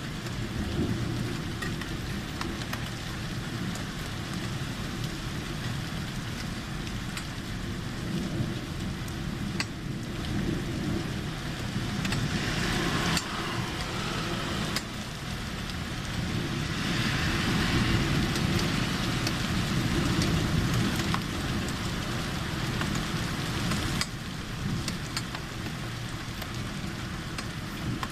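Rain falling steadily during a thunderstorm, a constant hiss over a low rumble, swelling louder twice in the middle, with a few sharp drip ticks.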